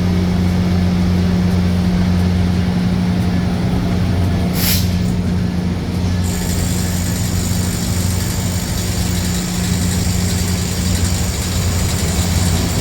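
Diesel train locomotive idling with a steady low engine hum. A short burst of air-brake hiss comes about five seconds in, and a steady high hiss joins about a second later.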